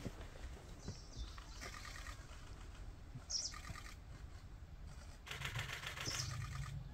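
Birds calling: short high chirps a couple of times and stretches of rapid repeated notes, over a steady low rumble.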